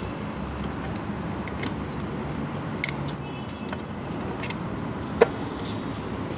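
Scattered light metallic clicks and taps of small engine parts and hand tools being handled, with one sharper click about five seconds in, over a steady low background rumble.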